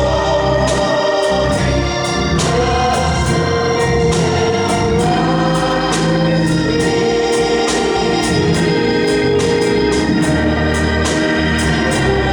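Gospel music led by an organ holding chords, over a steady beat.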